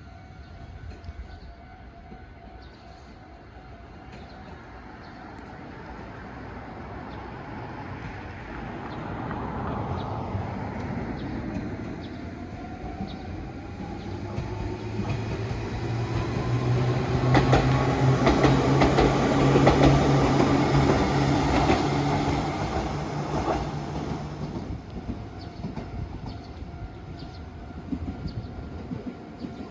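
An electric train approaches and passes close by. Its motor whine rises in pitch, and its wheels clack over the rail joints at the loudest point, about two-thirds of the way in. The sound then fades away.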